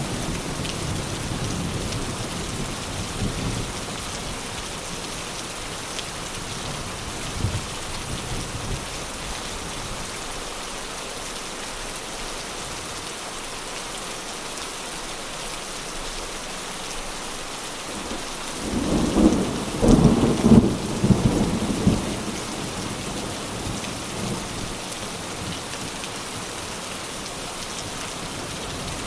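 Steady rain falling, with thunder: a low rumble in the first few seconds, then a louder roll of thunder about two-thirds of the way in that lasts a few seconds.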